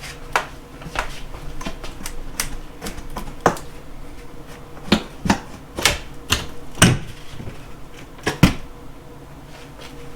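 Irregular sharp knocks and clacks of wooden trim and paneling being pried and pulled off a wall, with a few louder cracks around the middle.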